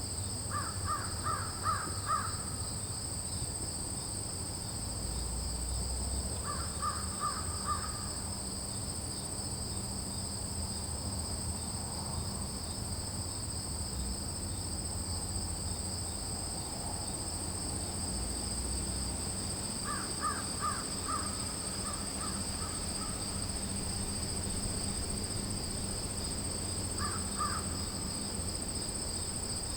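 Outdoor nature ambience: insects trill steadily at two high pitches, while a bird gives four bursts of four or five quick harsh calls, near the start, around seven seconds, around twenty seconds and near the end.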